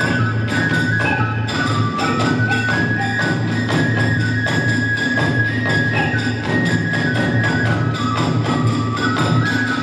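Kagura hayashi music: a bamboo transverse flute (fue) playing a held, stepping melody over a fast, steady beat of taiko drums and clashing hand cymbals (tebyōshi).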